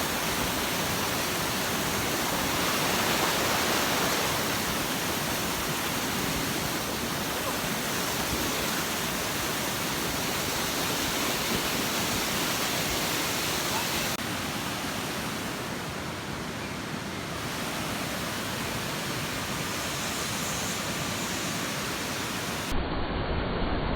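A large waterfall rushing steadily, an even wash of falling water. Its tone shifts abruptly about halfway through, and again near the end, where it turns duller with more low rumble.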